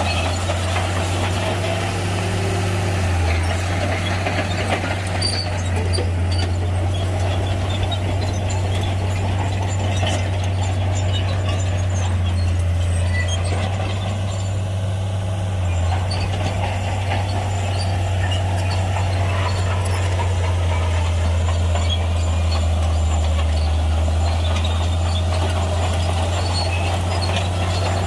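Heavy SHANTUI bulldozer's diesel engine running steadily, a constant low drone with clattering machine noise over it, and brief dips in the drone about three seconds and fifteen seconds in.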